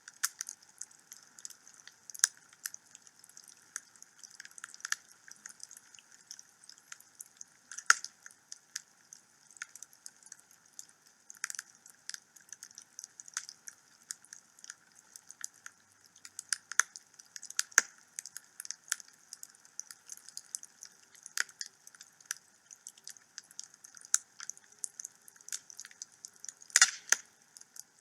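Wood fire burning in a fireplace: irregular sharp crackles and pops over a faint hiss, with a quick cluster of louder pops near the end.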